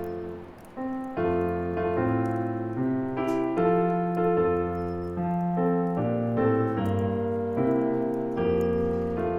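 Gentle piano music, a Christmas song played as sustained chords that change about once a second. Faint crackles of a bonfire tick over it.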